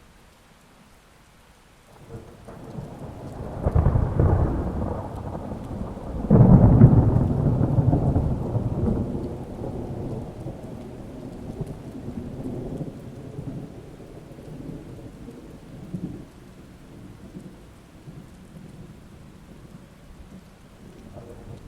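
Thunder rolling over steady rain: the rumble builds about two seconds in, a louder peal breaks a little after six seconds, and it rolls away slowly with a few smaller rumbles later.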